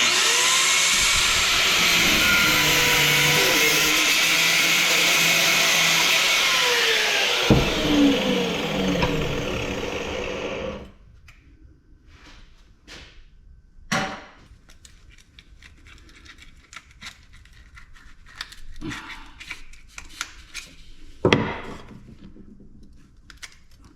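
A power tool cutting through a small steel part of an ice maker for about ten seconds, its motor pitch sagging under load, then winding down and stopping. After that come light clinks and knocks of metal parts being handled, with sharper knocks about halfway through and near the end.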